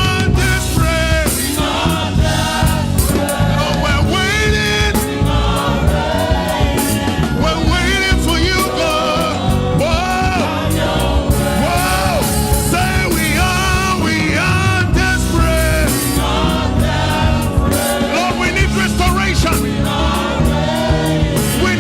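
Gospel choir singing with a live band: voices over bass, drums and keyboard with a steady beat.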